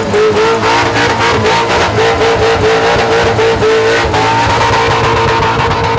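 Supercharged V8 of a Holden Commodore ute held at high revs through a burnout, the rear tyres spinning. The note pulses rapidly and rises slightly about four seconds in.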